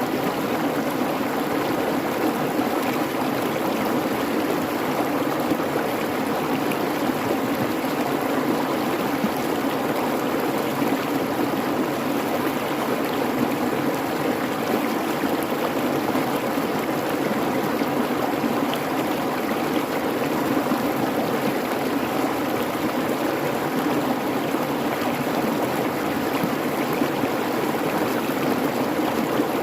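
Creek babbling, a steady rush of running water that does not change.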